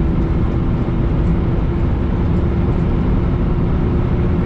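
International semi truck's diesel engine and road noise heard from inside the cab while driving: a steady, loud low drone with a steady hum above it.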